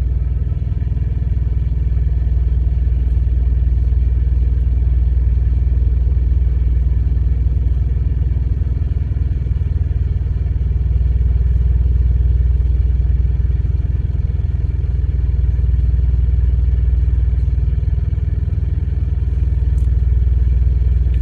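A truck engine idling, a steady low drone that holds even throughout.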